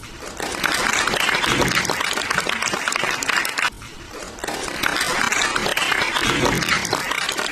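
Hand clapping mixed with voices, with a short lull a little past halfway.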